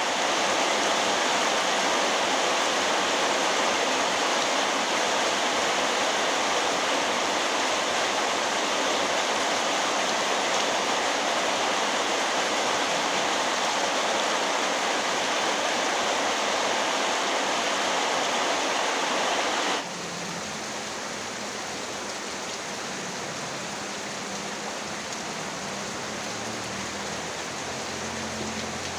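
Heavy rain pouring in a dense, steady hiss. About two-thirds of the way through it cuts suddenly to quieter, lighter rain.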